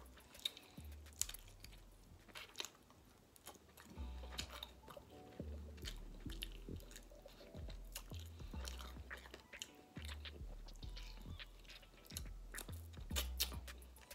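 A person chewing and biting into chicken wings close to the microphone, with many sharp wet mouth clicks.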